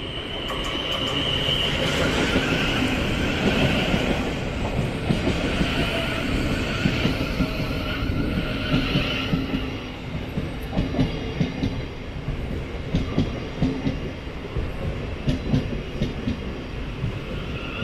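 Thameslink Class 700 electric multiple unit running into the platform and slowing. Its wheels rumble with a high squeal through the first half, then a run of sharp clicks over the rail joints as it draws along the platform.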